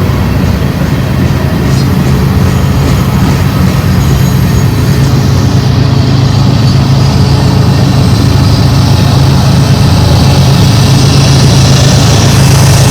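Freight train diesel locomotives running with a steady low drone, growing slowly louder.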